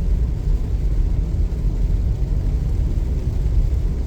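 A car driving at road speed on a rain-wet road: a steady low rumble of tyre and engine noise.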